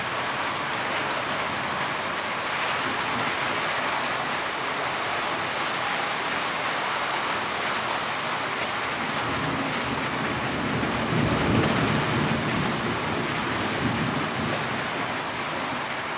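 Heavy rain falling steadily, with a low rumble swelling and fading a little past the middle.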